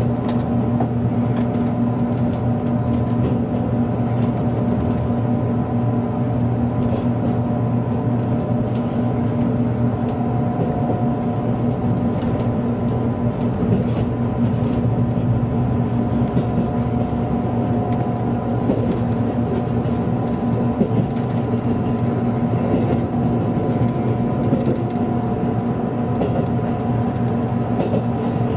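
Steady running noise of a train heard from inside the carriage: a constant low rumble with a few held humming tones over it.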